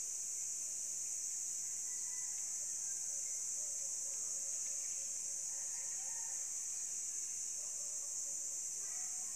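Steady, high-pitched chorus of insects buzzing without a break, with a few faint short calls underneath.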